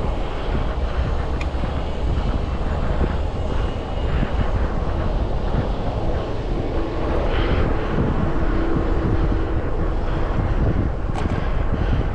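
Wind rushing over an action camera's microphone on a moving bicycle, mixed with road and traffic noise. A faint steady hum joins in from about five to nine and a half seconds in.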